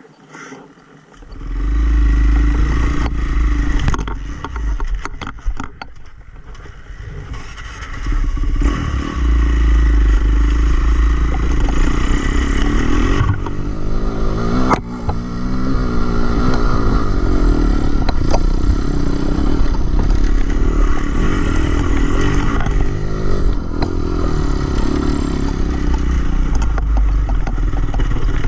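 Dirt bike engine running and revving, changing pitch as it is ridden, with heavy low wind rumble on the microphone from about a second in.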